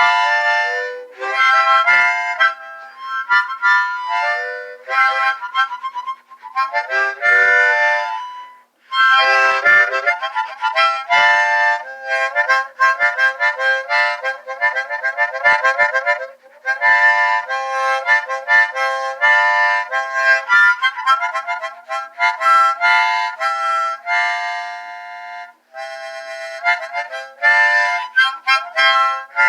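Harmonica played solo in quick runs of chords and single notes, with a few brief breaths between phrases.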